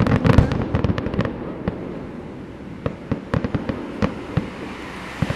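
Fireworks display: a dense run of rapid sharp pops and bangs in the first second or so, thinning to scattered single pops, with a quick cluster of pops near the end.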